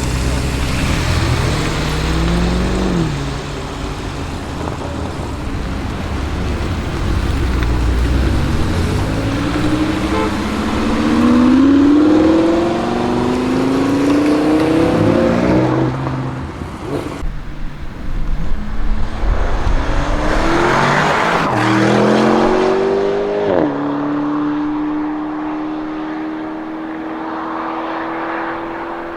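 ABT-tuned Audi RSQ8-R twin-turbo V8 accelerating hard. The engine note rises and drops back several times as it shifts up through the gears, then settles into a steady, slowly rising drone near the end.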